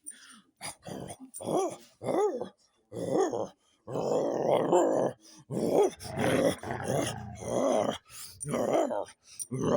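Dog play-growling and grumbling in a string of short calls that rise and fall in pitch. The calls come closer together and run longer in the middle.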